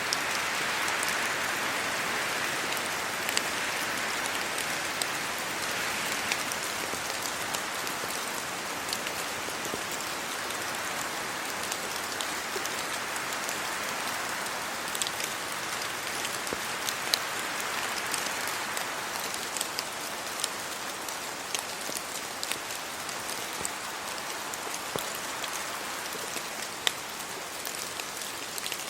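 Steady rain falling on trees and the ground, with many sharp drops and drips ticking through it. A rushing sound swells and eases several times, wind moving through the wet leaves.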